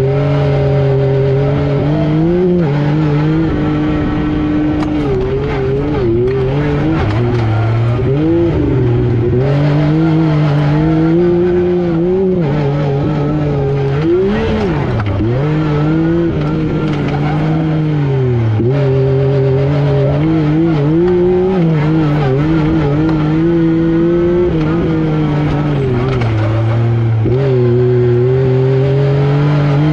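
Yamaha YXZ1000R SS side-by-side's three-cylinder engine working hard, its pitch rising and falling with the throttle, with a few short deep dips about halfway through.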